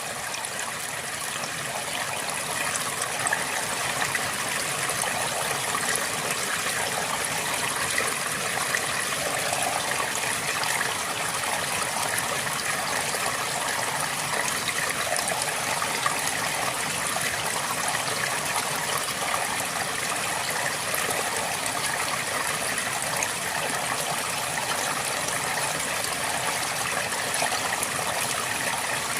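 River water flowing and babbling steadily, an even rushing with small splashes and trickles throughout.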